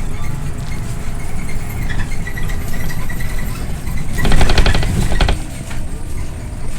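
Scania OmniLink I bus in motion, heard from inside: a steady rumble from the engine and road. A little past the middle comes a loud, rapid rattling that lasts about a second.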